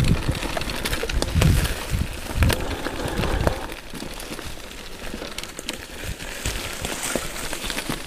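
Electric mountain bike being ridden over a rough dirt trail: scattered knocks and rattles, with gusts of wind rumbling on the microphone for about the first three and a half seconds, then quieter.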